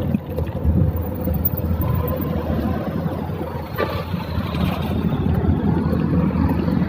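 Steady road and vehicle noise, a rumble of engine and tyres, heard while riding along a road. A single sharp click comes about four seconds in.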